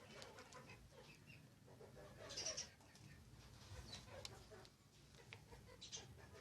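Faint house sparrows chirping in short, scattered calls, with a louder cluster of chirps about two and a half seconds in.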